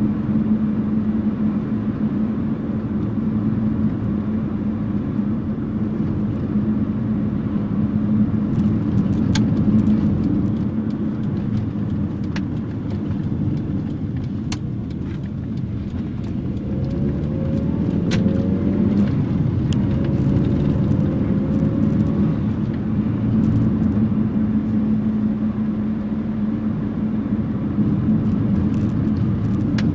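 1984 Nissan N12's 1.5-litre E15 four-cylinder engine running with a steady hum. Its pitch rises and falls for a few seconds about halfway through, with scattered light clicks and knocks.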